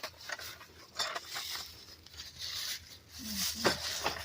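Rummaging through a pile of loose tools and parts: light clinks of metal pieces and rustling as things are moved and picked up.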